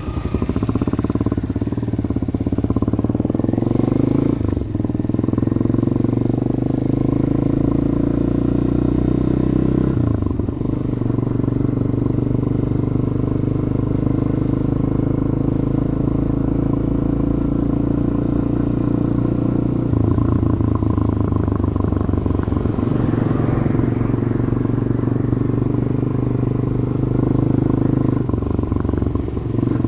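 Stock exhaust of a Demak DTM 150 single-cylinder motorcycle being ridden, its engine note climbing under throttle and dropping several times as the gears change.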